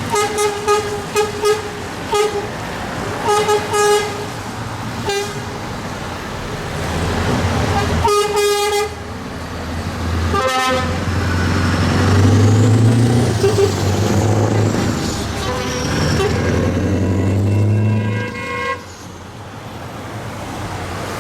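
Vehicle horns tooting in short repeated blasts, with longer blasts now and then, over the low drone of tractor engines passing. The engine drone swells, then drops away near the end, and a high tone slides up and down midway.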